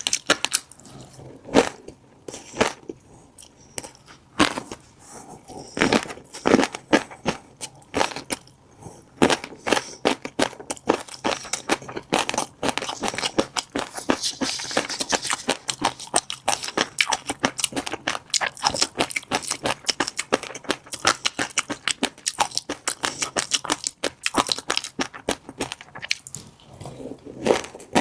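Close-miked chewing of fish roe: a dense, irregular run of small sharp pops as the eggs burst between the teeth, sparser at first and busier from about a third of the way in.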